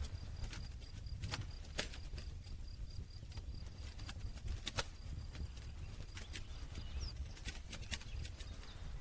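Campfire crackling: irregular sharp pops and snaps of burning wood, several a second with a few louder ones, over a low steady rumble of the flames.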